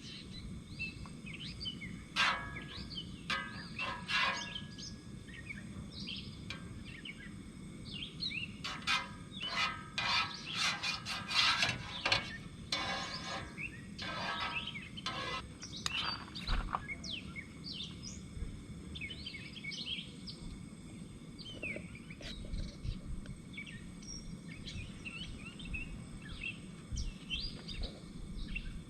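Wild birds chirping and singing over a steady low outdoor hum. Two clusters of short, sharp rustling or crunching sounds come a couple of seconds in and again from about nine to sixteen seconds in, and these are the loudest sounds.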